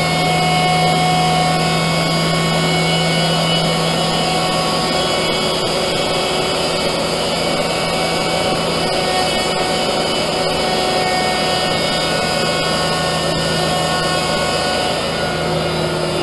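Leifeld PLB 1200 spinning lathe running with its compound slide in operation. It gives a steady hum with a constant whine of several higher tones over a mechanical noise bed, and a few faint ticks.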